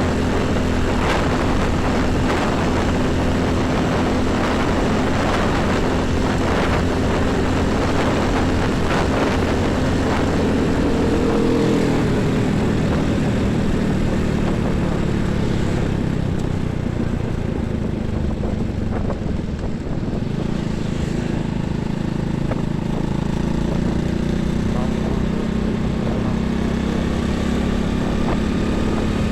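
Heavy highway traffic: diesel trucks and buses running past with a steady low engine drone and tyre noise. A brief higher engine tone falls away about halfway through.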